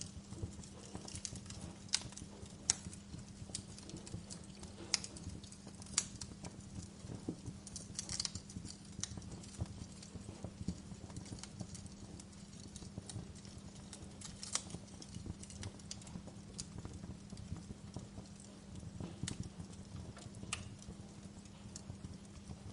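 Wood fire burning in a fireplace, crackling with irregular sharp pops and snaps over a steady low background hum.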